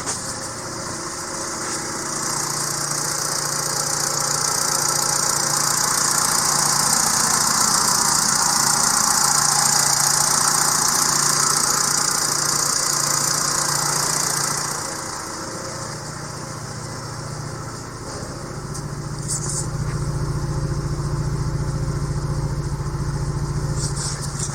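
BMW 120i's N46B20B 2.0-litre four-cylinder engine idling steadily. A hiss runs over the idle from about two seconds in and stops around fifteen seconds.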